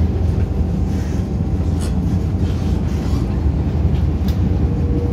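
MTR Island Line M-Train running, heard inside the car: a steady deep rumble of wheels on rail and the running gear, with a couple of faint clicks.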